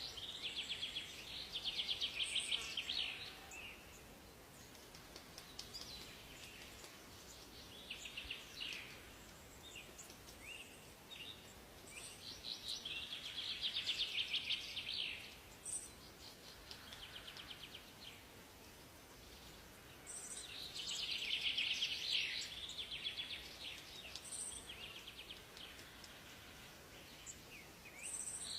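Forest songbirds singing: loud, rapid trilled song phrases of two to three seconds come back several times, with quieter chirps and calls between them.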